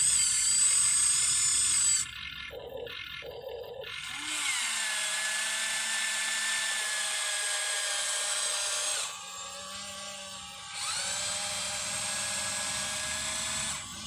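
Small electric gear motors of a Huina 1593 RC excavator whining in three runs: a loud, high-pitched whine for about two seconds, a longer, lower whine starting about four seconds in, and another starting about eleven seconds in.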